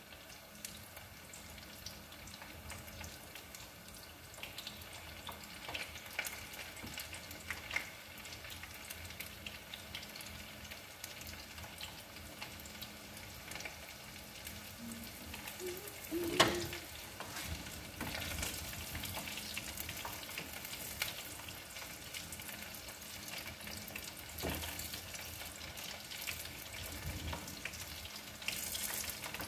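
French fries deep-frying in hot oil in a pot, the oil sizzling steadily, with a single sharp knock about halfway through and a spoon stirring the pot near the end.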